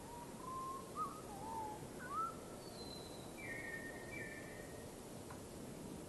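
Birds calling over a steady outdoor hiss: a string of short, sliding whistles in the first two seconds, then two buzzy notes around the middle.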